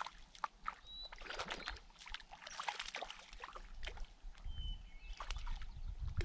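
Irregular splashing and sloshing of water with light clicks and knocks, and a low rumble building about two-thirds of the way in.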